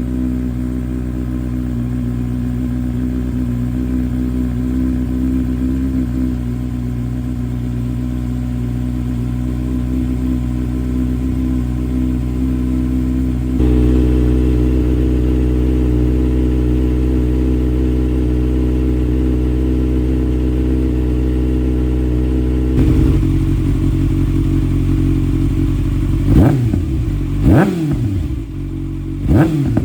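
2024 Kawasaki ZX-6R's inline-four engine idling through an SC Project slip-on exhaust with the stock mid muffler still fitted; the idle note gets louder about halfway through. Near the end it is revved sharply three times, each rev rising and dropping back quickly.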